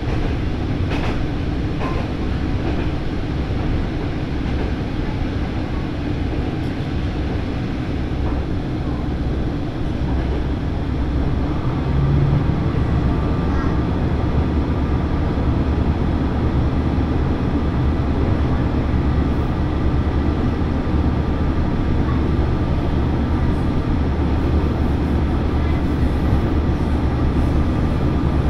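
Diesel railcar running along the line, heard from inside the cabin: a steady low engine drone over rumbling wheel and rail noise, with a few sharp clicks in the first couple of seconds. About twelve seconds in the drone grows a little louder and holds steady.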